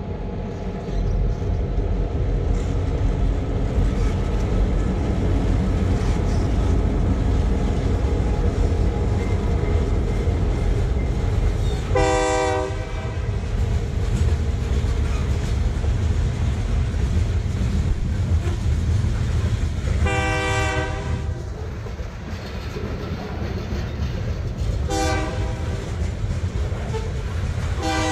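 Diesel-hauled freight train passing. The locomotives' engines drone by first, then hopper and tank cars rumble and clack over the rails. The distant locomotive horn sounds the grade-crossing pattern: long, long, short, then a final long starting near the end.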